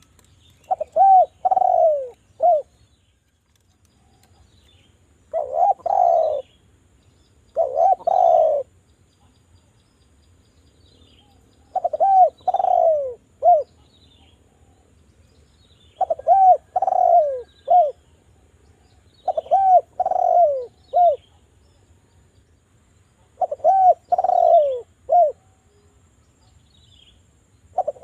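Spotted dove (derkuku) cooing: phrases of three or four short coos that rise and fall in pitch, repeated every three to four seconds.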